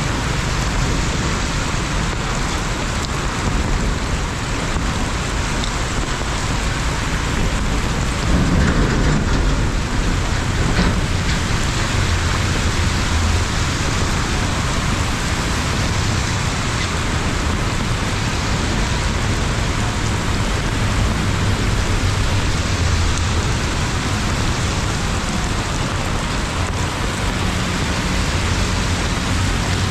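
Heavy rain falling steadily, with a low rumble underneath that swells slightly about eight seconds in.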